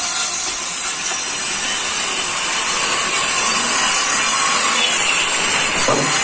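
A loud, steady hiss, like air or a power tool working on metal.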